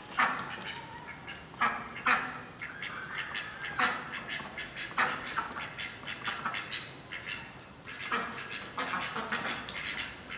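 Three young domestic birds squabbling, with repeated short calls and squawks coming in clusters throughout, signs of a fight among them.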